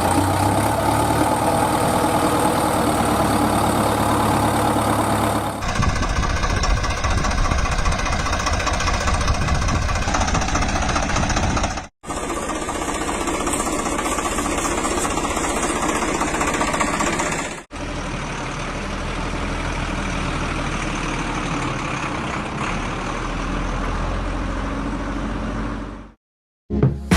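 Vehicle engines running in several short clips spliced together. The sound changes abruptly at each cut, about every six seconds.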